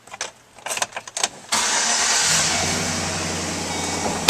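A few clicks, then the 2012 Chevrolet Silverado 1500's 4.8-liter V8 starts about a second and a half in, catching at once and settling into a steady idle.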